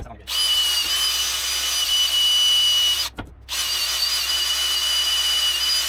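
Handheld drill-type power tool running at high speed: a steady high-pitched whine with a hiss, stopping briefly near the start and again about three seconds in as the trigger is released and squeezed again. It is in use for cleaning rust off the wheel hub area.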